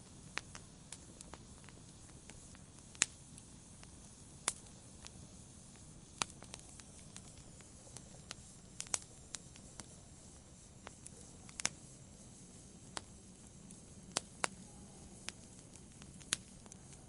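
Wood campfire crackling: irregular sharp pops and snaps of burning wood, a few louder, over a soft steady hiss of the flames.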